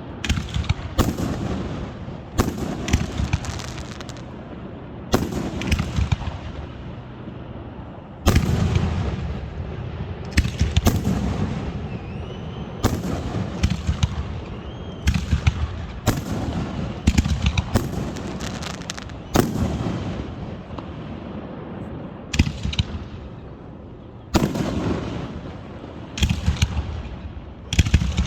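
Fireworks going off one after another: repeated sharp bangs, each followed by a rolling echo, some coming in quick crackling clusters.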